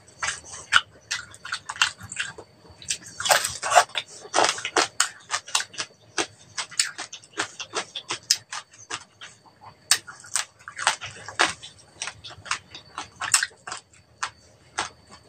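Close-up chewing of crispy deep-fried pig's head: many sharp, irregular crunches of crackling skin, several a second, with wet mouth sounds between them.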